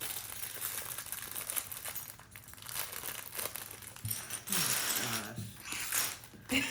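Plastic Lego parts bags crinkling and rustling as hands dig through them, an irregular crackle with small clicks throughout.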